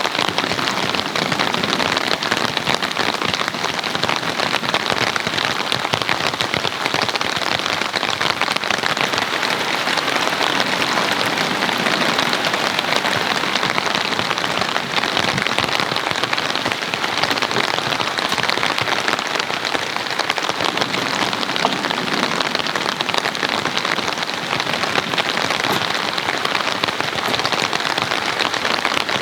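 Heavy rain falling steadily, a dense even patter of drops with no let-up.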